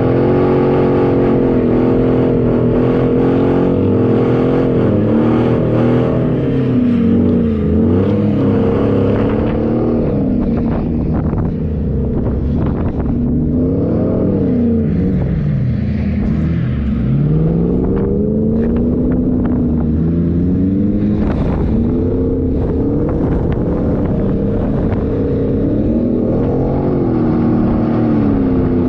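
Four-wheel-drive vehicle's engine running under load, its pitch rising and falling over and over as the throttle is worked.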